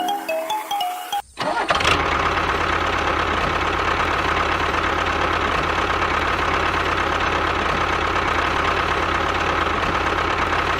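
A few chime-like music notes, then a small motor starts about a second and a half in and runs steadily, with a constant high whine over a low hum.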